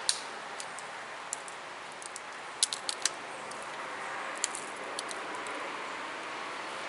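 Chert being pressure-flaked with a copper-tipped flaker: sharp little clicks and snaps as tiny flakes pop off the edge of the stone. About a dozen come at irregular intervals, with a quick cluster about two and a half to three seconds in, over a steady hiss.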